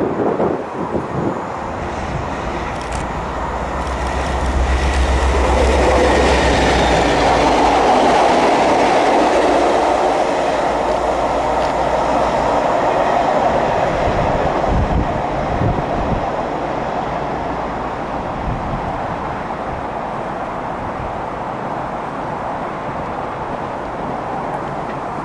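Diesel-hauled train of a Class 57 locomotive dragging two HST power cars passing at speed: a low steady engine note with wheel and rail rumble that builds over the first few seconds, is loudest from about five to fourteen seconds in, then fades as the train moves away.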